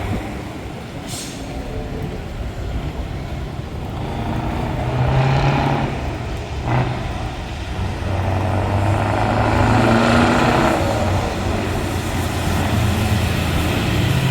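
Truck V8 engine on open exhaust pipes running and being revved, the engine note swelling about five seconds in and again for a few seconds from about eight seconds in. A short hiss about a second in.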